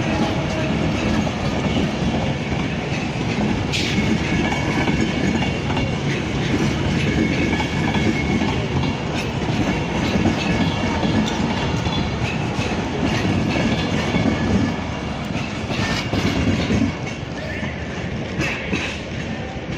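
Class 390 Pendolino electric train pulling out and rolling past at low speed, its wheels clicking over rail joints, with thin high squeals. The sound grows quieter near the end as the train moves away.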